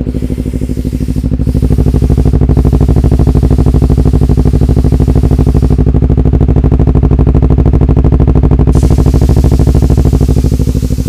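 Motorcycle engine running steadily through a DX Generation Sphere Oval aftermarket exhaust, a deep, bassy note that gets louder about a second and a half in and eases off near the end.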